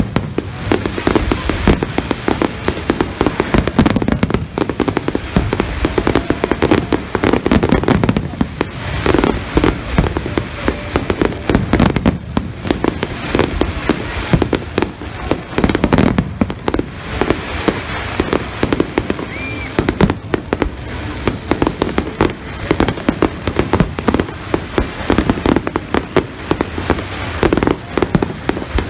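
Large aerial fireworks display: many shells bursting in rapid, overlapping succession, with bangs and crackles several times a second and no let-up.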